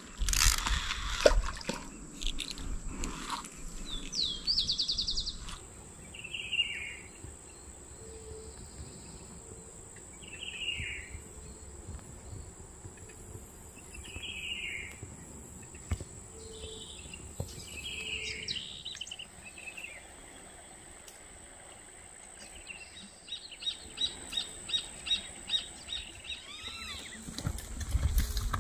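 Wild birds calling: a short downward-slurred call repeated every few seconds, then a fast run of sharp repeated notes near the end.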